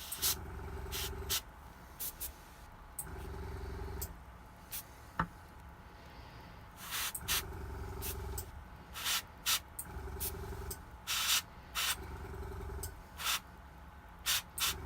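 Airbrush spraying ink in many short hissing bursts of air. An air compressor's motor hums on and off in about one-second spells between them.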